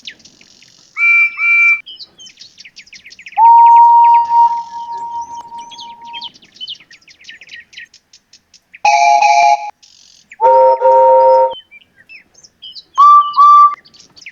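Steam locomotive whistles blow over a birdsong background. First come two short toots, then one long whistle, then two blasts of a deeper chime whistle, and near the end two more short toots.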